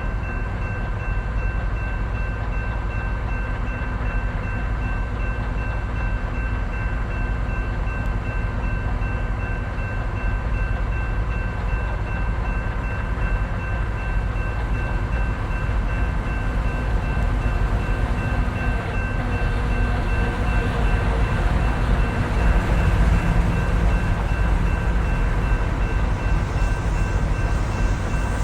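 A train rolling past: a steady, heavy rumble of wheels on rail with a few thin steady high tones above it, growing somewhat louder in the second half.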